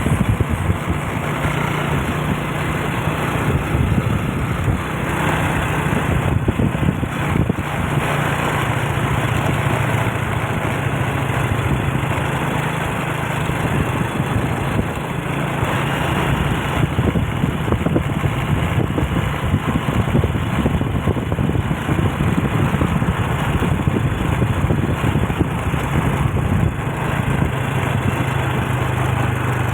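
Vehicle engine running steadily on the move, its hum stepping slightly up and down in pitch a few times, over road and wind noise.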